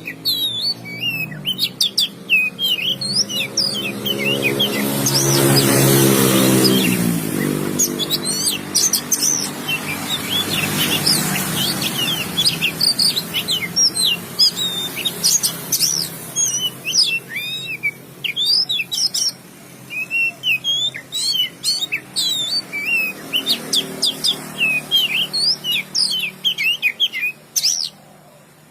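Oriental magpie-robin (kacer) singing continuously, a fast stream of varied sliding whistles and chirps. Between about two and eight seconds in, a low droning sound swells and fades under the song.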